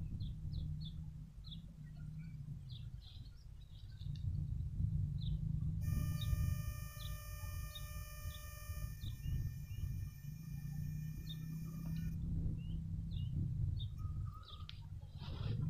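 Small birds chirping, many short calls scattered through, over a steady low rumble. From about six seconds in, a steady high-pitched tone holds for about six seconds and then stops.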